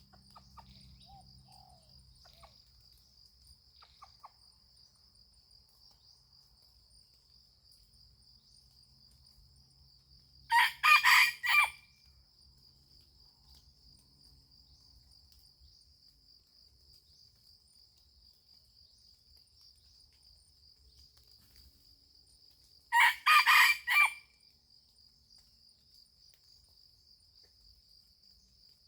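A junglefowl rooster crows twice, about twelve seconds apart, each crow short and clipped. Between the crows, insects drone steadily at a high pitch.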